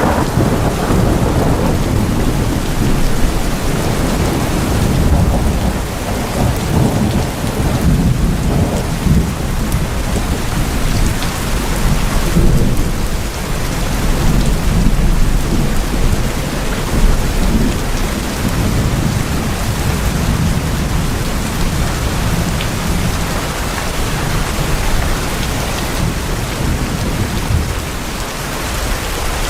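Steady rain drumming on tin roofs, with rolling thunder as a deep rumble that swells and fades.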